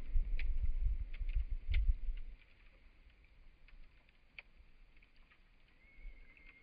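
Campfire wood crackling, with scattered sharp pops and snaps throughout. A low rumble in the first two seconds dies away, and a thin high steady whistle comes in near the end.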